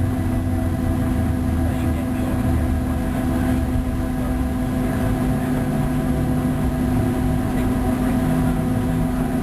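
Cabin noise inside a Boeing 737 on its landing rollout: the CFM56 turbofan engines give a steady hum of several held tones over a low rumble from the airframe and wheels.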